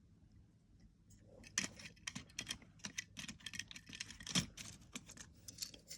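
Small die-cast toy cars clicking and clattering against each other and their case as they are handled, in a quick run of light clicks starting about a second and a half in.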